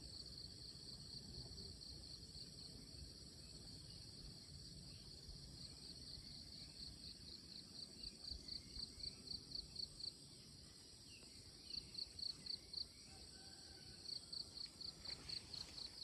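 Insects calling: a steady high-pitched insect chorus, with one insect chirping in runs of about four to five pulses a second, three runs in all, the longest about four seconds. A low rumble lies underneath.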